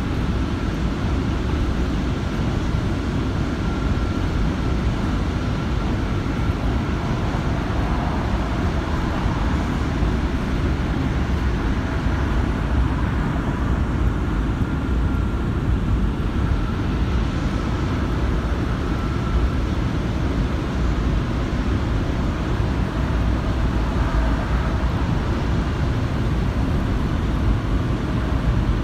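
New York City Subway J train running at speed: a steady rumble of wheels on the rails with a faint whine that comes and goes.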